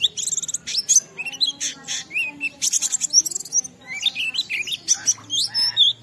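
White-eye (pleci) singing a long, fast, varied song of rapid chirps, trills and high whistled up-and-down glides, the notes tumbling one after another with only brief pauses. This is the full 'ngalas' song of an on-form bird, showing off its repertoire of mimicked phrases ('isian').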